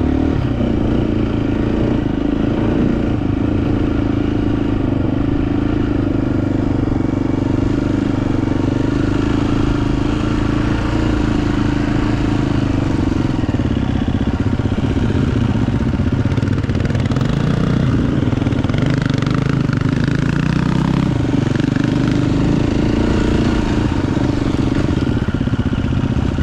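Dirt bike engine running continuously while being ridden along a trail, its pitch shifting a few times with the throttle, most noticeably a little over halfway through.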